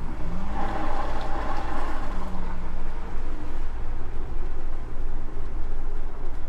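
Engine of a 1957 Chevrolet Bel Air running as the car moves at low speed, a steady low drone whose pitch rises briefly about half a second in.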